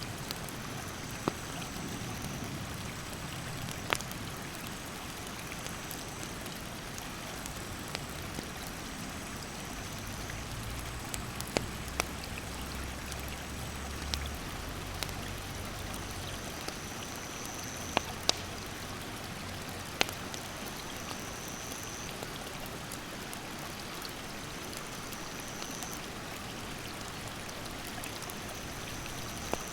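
Steady rush of stream rapids with a wood campfire crackling: sharp single pops at irregular intervals of a few seconds. A high, thin call repeats every couple of seconds behind them.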